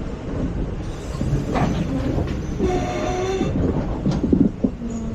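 ICF passenger coach running on the track: a steady low rumble with scattered knocks and rattles from the wheels and rail joints. A brief pitched tone sounds a little past the middle.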